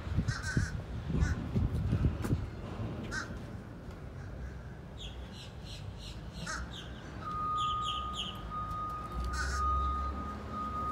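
Crows cawing in a run of short repeated calls about halfway through, after a few low knocks and clunks near the start. A steady thin tone comes in a little after the calls begin and holds on.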